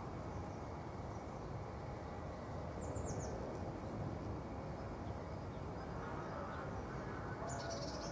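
Steady low outdoor background noise with a few brief high bird chirps, a short run of falling chirps about three seconds in and another burst near the end.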